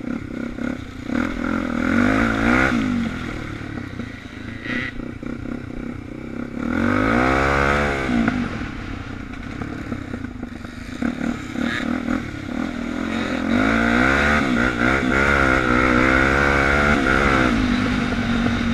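Suzuki DR350's single-cylinder four-stroke engine heard from on board while riding a trail, the revs climbing and dropping three times, the longest pull near the end, with knocks and rattles from the bike over rough ground.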